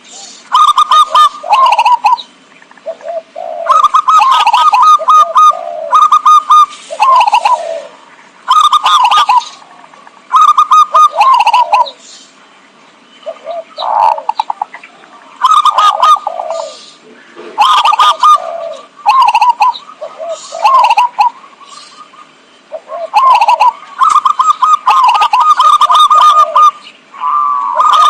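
Zebra dove (perkutut) cooing, a lure call played back: repeated loud phrases of quick, stuttering coos, each about a second long and separated by short pauses.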